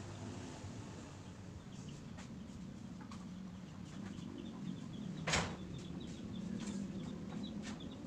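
Small birds chirping over a low steady background rumble, with a single short, sharp noisy burst about five seconds in.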